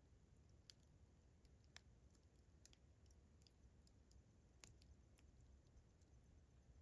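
Campfire crackling faintly: irregular, sparse pops and snaps of burning wood, about seven in the stretch, over a low rumble.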